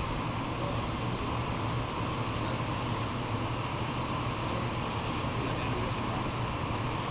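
Idling vehicle engine: a steady low hum under a constant hiss, with no change in level.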